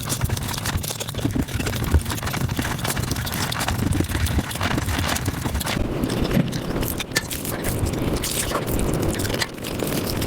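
Close-miked eating sounds played back sped up: a fast, unbroken run of chewing, smacking and biting clicks.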